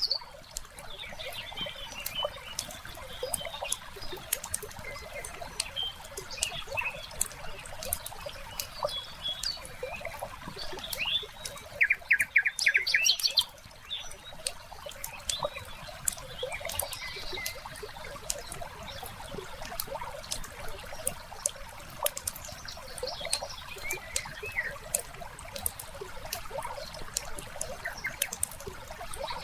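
Wood fire crackling, with a steady scatter of small pops, over birds chirping and water trickling. About twelve seconds in comes a loud, rapid chattering call about a second long.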